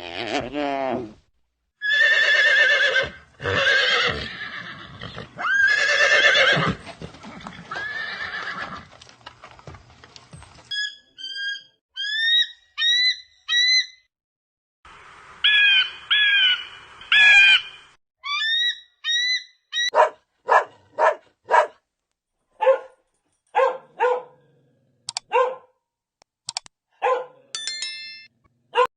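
A run of different farm animal calls one after another. Long, loud pitched calls fill the first ten seconds, short rising chirps follow until about eighteen seconds in, and then comes a string of short, sharp calls.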